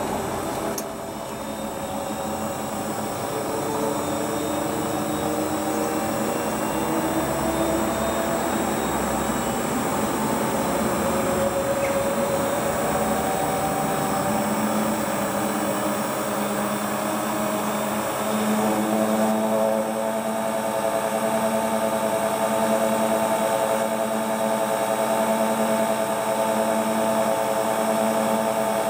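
Hotpoint Ultima WT960 washing machine spinning its drum on a new replacement drive belt. The motor's whine climbs in pitch in stages, then holds steady for the second half.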